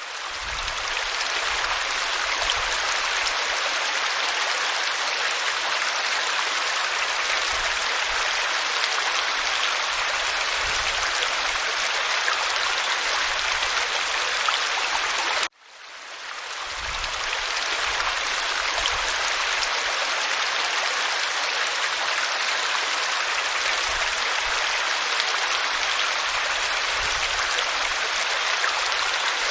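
Waterfall splashing onto rock: a steady, even rush of falling water. About halfway through it cuts out abruptly and swells back in over a couple of seconds, the seam of a looped recording.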